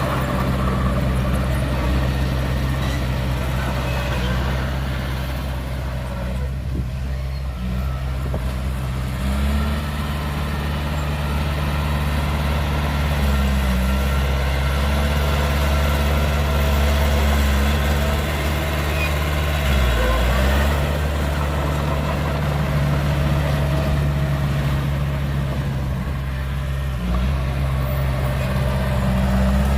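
Heavy diesel engine of earthmoving machinery running steadily at low revs, its pitch stepping up about a third of the way in and dipping briefly twice later on.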